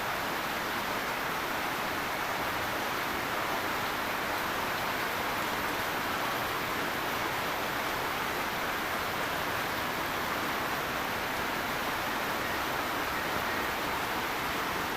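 Rain falling steadily: an even hiss with no separate drops, thunder or other events standing out.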